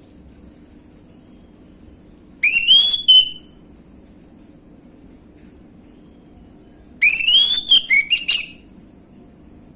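Orange-headed thrush singing: two short bursts of rising whistled song phrases, one about two and a half seconds in and a longer one about seven seconds in.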